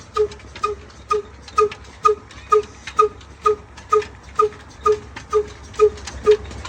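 Diesel engine running slowly with an even, regular exhaust beat of about two puffs a second, each beat carrying a short pitched note over a low steady hum.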